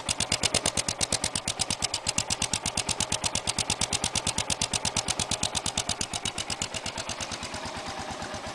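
Suzuki Boulevard S40 single-cylinder motorcycle engine idling through Harley Dyna stock mufflers that have been re-baffled with a homemade, partly blocked insert. It gives an even beat of exhaust pulses, roughly ten a second, easing slightly quieter near the end.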